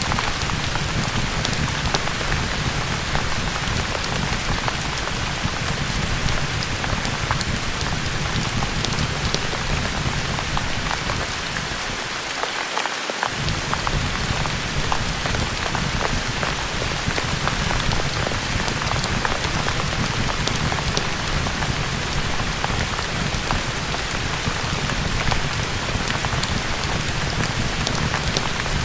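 Steady heavy rain with a constant low rumble underneath and scattered sharp crackles, as from a rain-and-fireplace ambience track. The low rumble drops out briefly near the middle.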